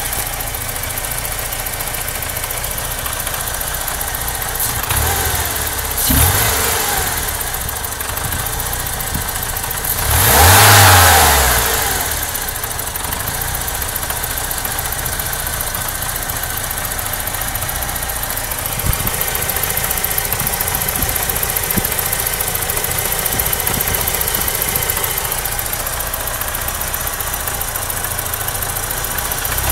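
BMW E30's M42 1.8-litre four-cylinder engine idling roughly, with two short throttle blips about 5 and 6 seconds in and a longer rev around 10 seconds in that rises and falls back to idle. The rough idle persists despite a new throttle position sensor, a swapped air flow meter, a different idle control valve, cleaned injectors and new vacuum hoses; its cause is untraced.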